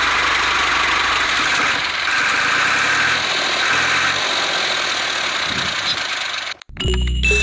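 Small motor of a homemade miniature machine running steadily with a noisy whirr, which cuts off abruptly near the end.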